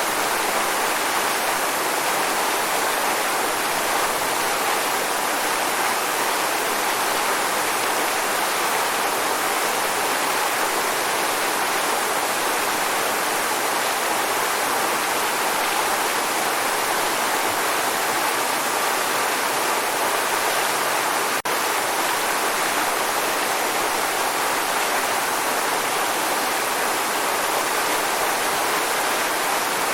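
Waterfall: a steady, dense rush of falling water with no pauses or changes, bright and hissy with little deep rumble.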